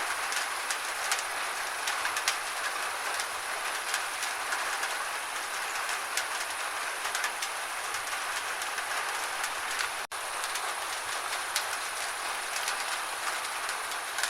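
Steady gentle rain with many separate drops ticking on a surface. The sound cuts out for an instant about ten seconds in.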